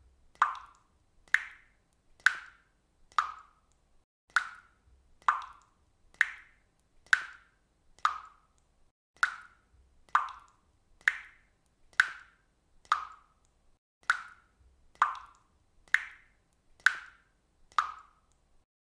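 Faucet dripping water, one drop falling about every second in a steady, even rhythm, each landing as a short plop with a brief ringing tail.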